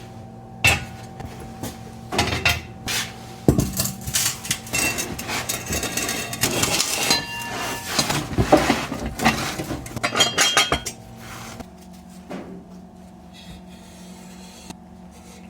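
Steel exhaust pipe sections and muffler clanking, knocking and clinking together as they are handled and test-fitted, some knocks ringing briefly. The clatter stops about eleven and a half seconds in, leaving a steady low hum.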